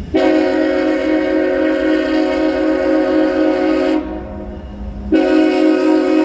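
GE ES44AH freight locomotive's air horn sounding a chord of several notes for a grade crossing: one long blast of about four seconds, then after about a second's pause a second long blast begins.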